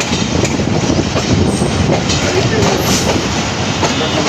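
Running passenger train: a steady rumble of the carriages with the wheels clacking over rail joints, and two brief high squeals about a third and two-thirds of the way through.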